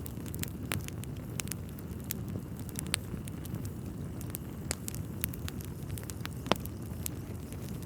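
Wood fire burning in a fireplace: a steady low rumble of flames with irregular crackles and pops from the burning logs, one sharper pop about six and a half seconds in.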